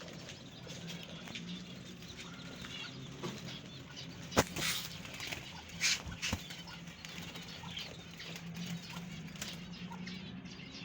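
Budgerigars moving about: wing flutters and small clicks and scrapes, with one sharp click about four seconds in and two louder flutters just after, over a steady low hum.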